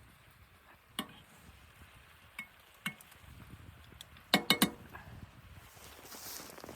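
Sharp metallic clinks: single ones spaced a second or so apart, then a quick run of three or four louder ones about four and a half seconds in, followed by soft rustling.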